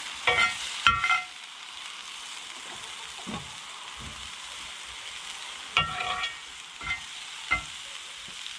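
Food sizzling steadily in a frying pan, with a few short ringing clinks of a utensil against cookware near the start and again later.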